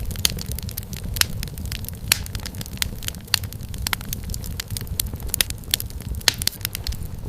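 Wood fire crackling and popping in a fireplace: frequent sharp, irregular snaps over a steady low rumble of the flames.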